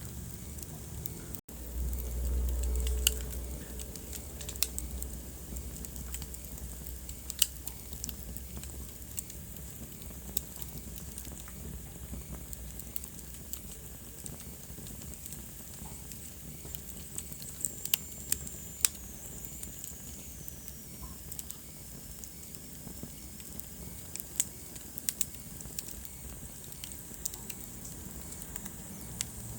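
Wood fire crackling in a fireplace: sharp pops scattered irregularly over a steady hiss. A low rumble runs for about two seconds near the start, and a faint high whistle falls slowly in pitch around the middle.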